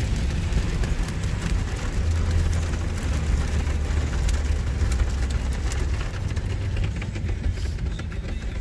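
Automatic car wash running over a car, heard from inside the cabin: a steady low rumble of the wash machinery with water spattering on the body in many small ticks.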